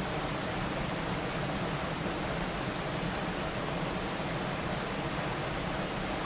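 Steady rushing of water from a small cascade on the stream just below, an even hiss with no change.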